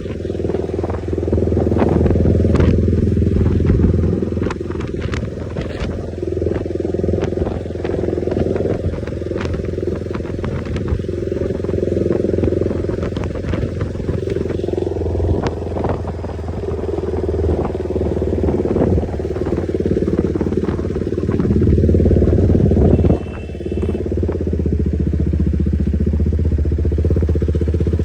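KTM motorcycle with a newly fitted aftermarket exhaust running on the road, engine note rising and falling with the throttle, with a sudden brief drop in loudness about three-quarters of the way through.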